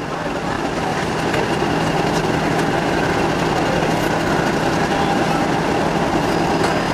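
A diesel-hauled train running: a steady rumble and rushing noise with a constant low hum, building up over the first second.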